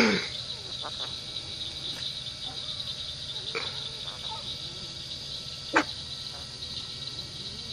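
A parrot gives a loud, short squawk that falls steeply in pitch right at the start, then a fainter call about three and a half seconds in and a short sharp one a little before six seconds. A steady high-pitched insect buzz runs underneath.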